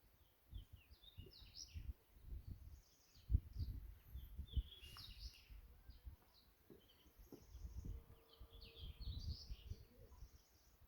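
Small birds chirping in short scattered bursts, in three clusters. Under them are low, irregular gusts of wind buffeting the microphone.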